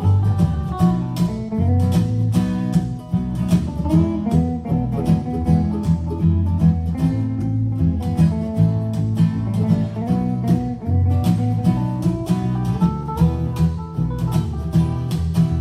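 Live band playing an instrumental break: a lead guitar takes a solo over bass and rhythm accompaniment with a steady beat.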